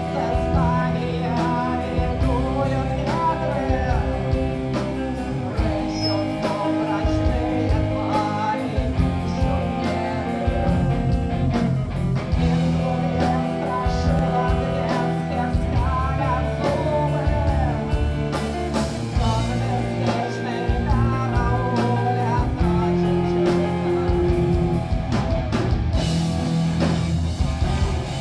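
Rock band playing live, with electric guitars, bass and drum kit under a singer's voice.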